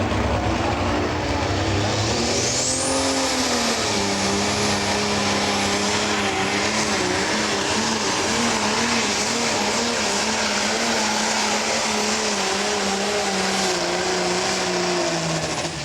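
Pro stock pulling tractor's turbocharged diesel engine under full power down the track, with a high turbocharger whistle that climbs about two seconds in and then holds. The engine note dips and wavers through the run and falls away near the end.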